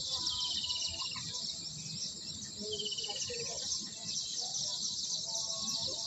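Small birds chirping in a dense, steady high-pitched chorus. A quick descending trill cuts through twice, just after the start and again about halfway through.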